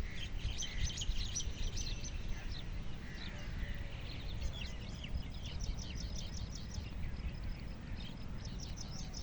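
Small birds chirping in quick runs of high notes, three bursts of rapid chirps near the start, in the middle and at the end, over a steady low rumble.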